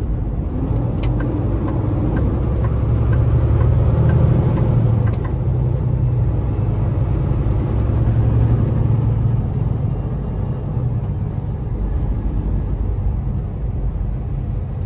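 Semi truck's diesel engine and road noise heard inside the cab: a steady low rumble that swells for a few seconds and eases off, with a few light clicks.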